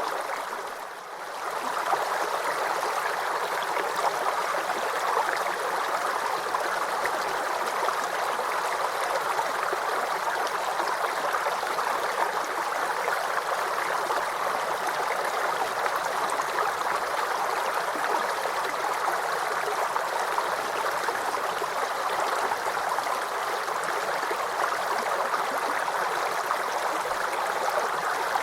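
Babbling forest brook: water streaming and gurgling steadily over stones, with a brief dip in level about a second in.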